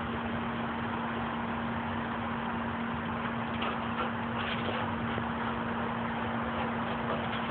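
Steady outdoor background noise with a constant low hum, like an idling engine or traffic nearby, and a few faint ticks past the middle.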